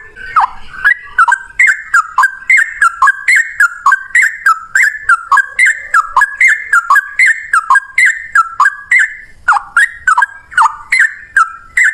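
Yellow-vented bulbul (trucukan) singing a long unbroken run of short, loud, bubbling notes, about three a second, each falling in pitch: the rapid continuous song that bird keepers call ropel.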